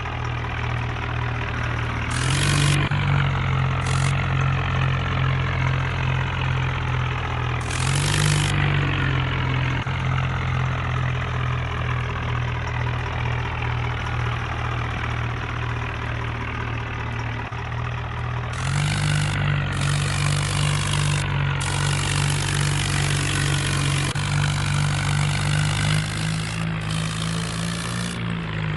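Swaraj 963 tractor's diesel engine running, revved up briefly about two seconds in and again near eight seconds, then held at higher revs for most of the last ten seconds.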